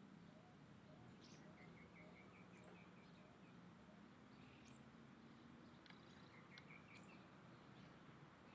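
Faint birdsong from several birds: short quick runs of chirps and a few sharp rising whistles, over a steady low background hum.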